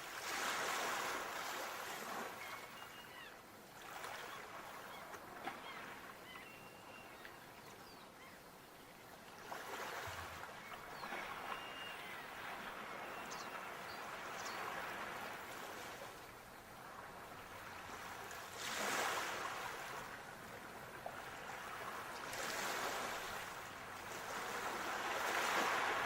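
Sea waves washing in and drawing back: a steady hiss of surf that swells up every few seconds and falls away again.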